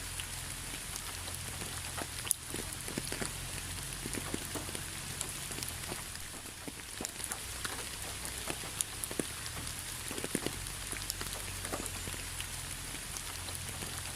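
Steady rain with many individual raindrops ticking and pattering onto a hard surface, irregular and close, over an even hiss.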